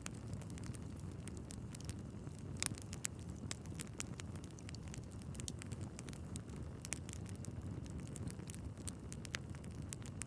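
Wood fire burning in a fireplace: a steady low rumble of flames with many irregular sharp crackles and pops from the logs, the loudest pops about two and a half seconds in and about seven seconds in.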